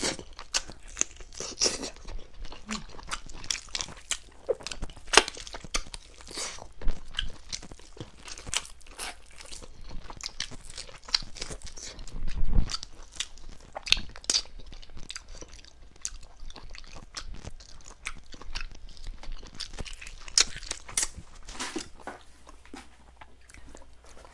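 Close-miked eating: biting, chewing and crunching on chicken in irregular, rapid crackles and smacks. There is one louder, deeper thump about twelve seconds in.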